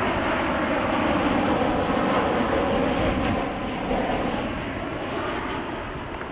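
Boeing 737 MAX 8 jet with CFM LEAP-1B engines passing on approach, a steady jet rush with faint engine tones that slowly bend in pitch, easing off in the second half. Wind rumbles on the microphone underneath.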